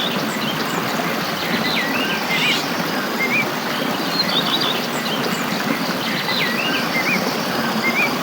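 Small songbirds chirping in short, quick phrases over a steady rushing background.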